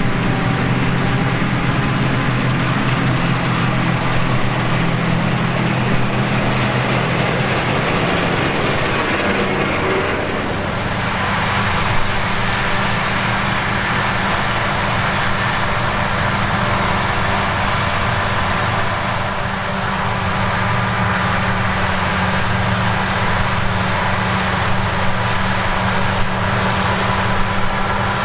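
Claas Lexion combine harvester working in grain: a loud, steady engine drone with a rushing machine noise over it. The engine note shifts about ten seconds in.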